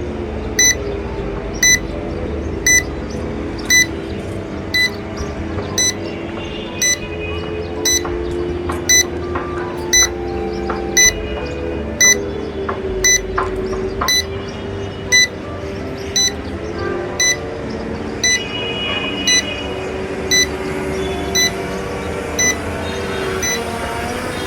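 M108 Plus drone's remote controller beeping steadily, one short high beep about every second, in return-to-home mode. A steady low hum runs underneath.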